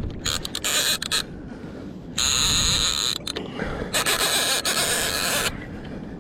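Fishing reel running in three bursts of whirring, mechanical buzzing, each lasting about a second.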